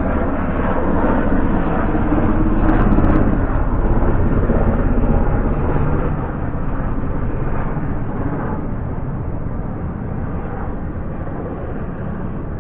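A loud, steady low rumble that swells to its peak about three seconds in and then slowly fades.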